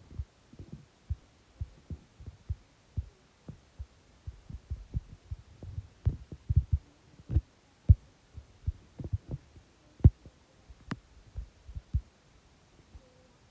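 Irregular soft low thumps and bumps, uneven in spacing and sometimes several a second, with a few sharper clicks, the sharpest a little after ten seconds in.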